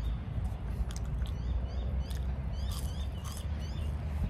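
Small birds chirping in short, repeated rising notes over a steady low rumble.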